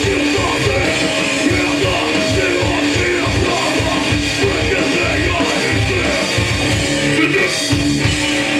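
Hardcore punk band playing live and loud: distorted electric guitar over a fast, busy drum beat.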